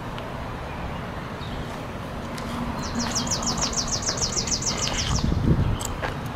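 A bird sings a fast trill of about fourteen quick, high, downward-sweeping notes lasting about two seconds, over a steady background hiss. A few short knocks follow near the end.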